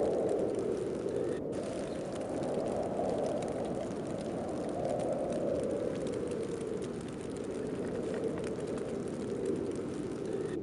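Heavy snowstorm wind blowing steadily, a low rushing noise that swells and eases in slow gusts.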